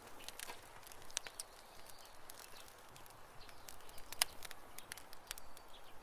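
Campfire crackling: irregular sharp pops and snaps of burning wood over a soft hiss, with the loudest pop about four seconds in.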